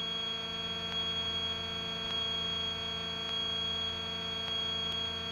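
Steady in-flight cabin drone of the GA-7 Cougar's twin piston engines, with a constant high-pitched whine over a low hum.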